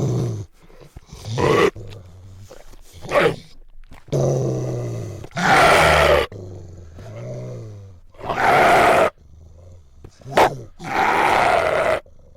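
Dogs growling and snarling in a series of separate bursts, each from half a second to about a second and a half long, the loudest near the middle.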